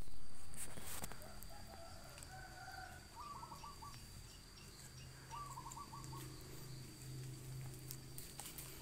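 Bird calls outdoors: short runs of quick notes repeated twice, after some softer gliding calls, over a faint steady high-pitched tone. A brief rustle and knock at the very start is the loudest sound.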